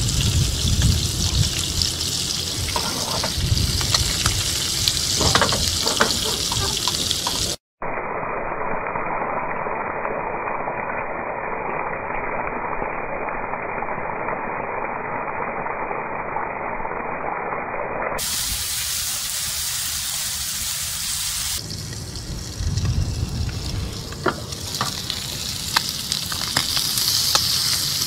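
Surfperch fillets sizzling steadily as they pan-fry in a nonstick skillet. The sizzle sounds dull and muffled through the middle stretch. Near the end a spatula scrapes and taps the pan.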